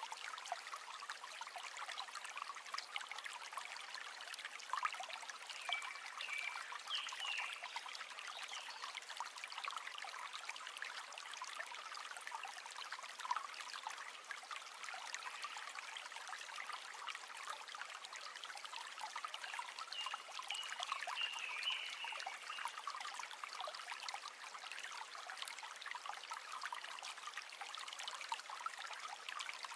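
River water flowing steadily, a light, trickling babble with fine splashes and no deep rumble. A few faint, short high chirps sit on top about six seconds in and again about twenty seconds in.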